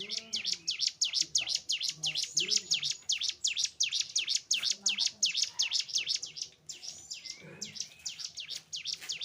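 Cigun (ciblek gunung, a prinia) singing a fast run of sharp, high repeated chirps, about five a second, with a short break a little past the middle.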